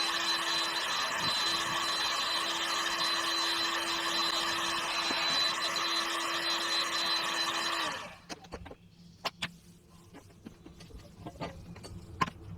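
Small high-speed electric motor running steadily at one pitch, then cutting off abruptly about eight seconds in. Scattered clicks and light knocks of handling follow.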